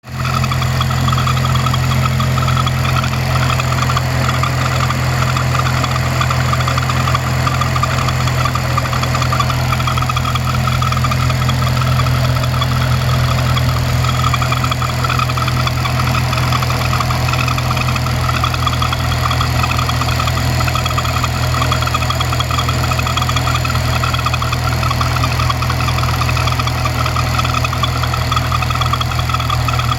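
Supercharged Honda K20 four-cylinder engine (Kraftwerks supercharger) idling steadily, with a flickering squeak over the idle that comes only at idle and stops when the engine is held at 2,000 rpm.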